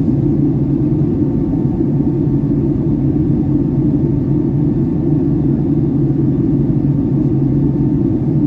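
Steady drone inside the passenger cabin of a Boeing 757-300 in flight on descent: engine and airflow noise, loud and unchanging, deepest in the low range.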